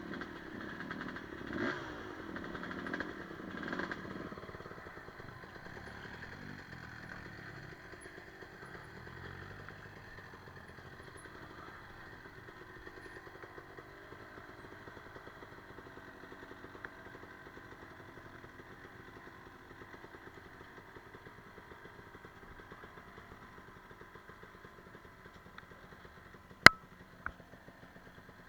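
Enduro motorcycle engine running, surging with throttle blips for the first few seconds and then running more steadily with its pitch rising and falling. Two sharp knocks near the end.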